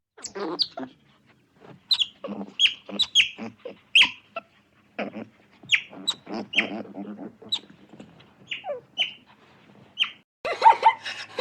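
An animal giving many short, high calls in quick succession, most of them falling sharply in pitch, with a busier cluster of calls near the end.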